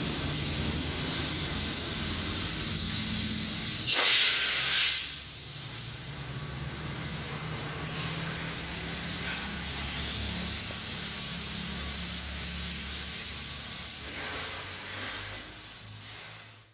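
Pressure-washer water spray hissing steadily against a car in a touchless wash, over a low machine hum. There is a louder blast of spray about four seconds in, and the hiss fades out near the end.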